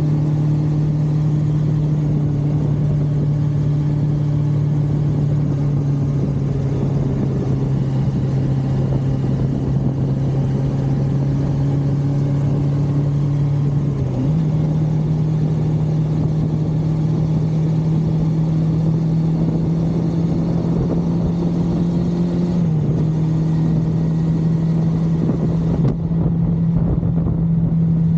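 1982 Suzuki GS550L's air-cooled inline-four engine running at road speed under wind rush. Its note sags slowly, jumps up about halfway through, then steps down a little about three-quarters of the way in.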